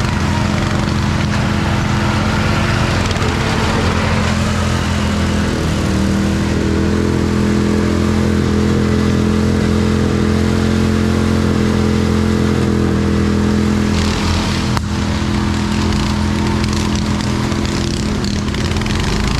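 Racing riding lawn mower engine running at high revs, its pitch stepping up about six seconds in and holding steady.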